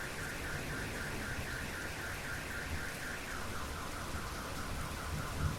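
Car alarm sounding through steady rain: a rapid pulsing tone, about five pulses a second, that steps down to a lower pitch a little past halfway.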